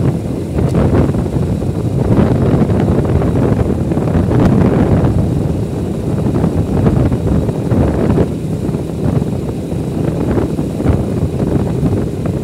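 Wind buffeting the microphone on a moving motorcycle, over a steady rumble of engine and road noise.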